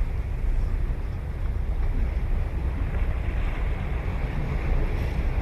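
Ocean surf washing onto the beach, a wave swelling up in the middle, with wind buffeting the microphone in a constant low rumble.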